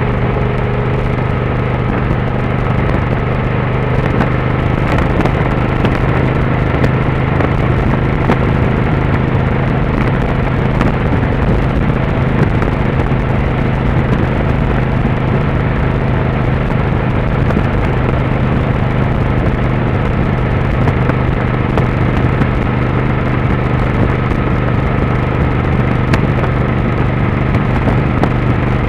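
Motorcycle engine running steadily while riding, its note holding an even pitch over a steady rushing noise.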